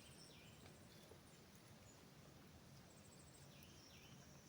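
Near silence: faint outdoor background with a few distant bird chirps, one just after the start and another near the end.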